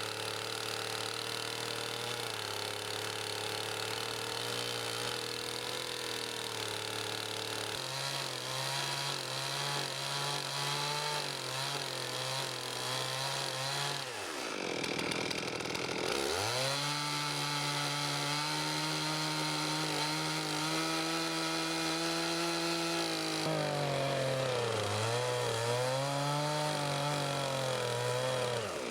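Chainsaw on an Alaskan chainsaw mill running at high revs as it cuts along a maple log. About halfway through, the engine pitch drops sharply and climbs back, and near the end it wavers as the load on the chain changes.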